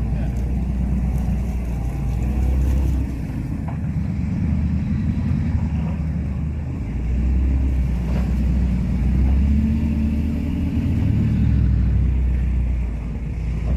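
Truck engine running with a deep low rumble, its level swelling and easing several times as it is manoeuvred.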